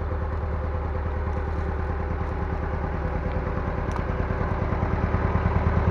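Heavy equipment engine running steadily with a fast, even pulse, growing louder over the last second or so.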